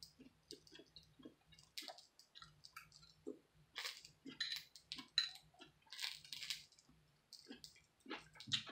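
Close-miked chewing and mouth sounds: an irregular string of soft wet clicks and short lip smacks.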